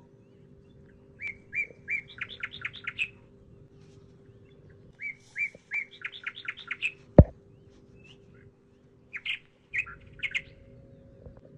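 A bird singing: two phrases of a few clear notes that speed up into a quick trill, then a few shorter calls near the end. A single sharp click about seven seconds in, over a faint steady hum.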